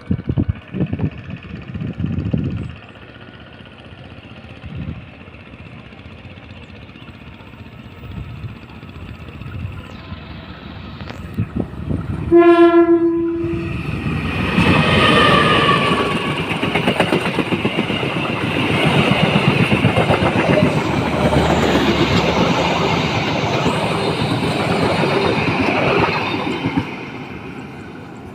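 CC 201 diesel-electric locomotive sounds one horn blast of about a second, then it and its passenger coaches pass close by with loud engine noise and wheels clattering over the rail joints for about thirteen seconds before fading.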